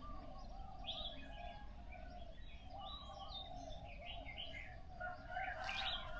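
Morning chorus of several birds chirping and singing over one another, with a continuous wavering song underneath. The calls are busiest near the end.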